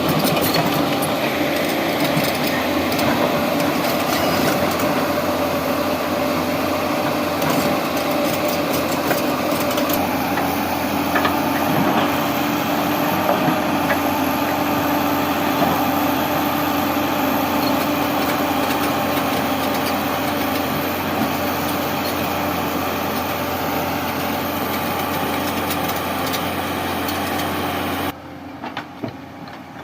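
Tata Hitachi 200 hydraulic excavator's diesel engine running steadily. The sound drops away suddenly near the end.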